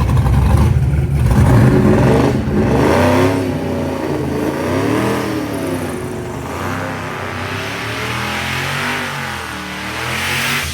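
Drag car's V8 engine revving, its pitch rising and falling again and again, loudest at the start and swelling again near the end.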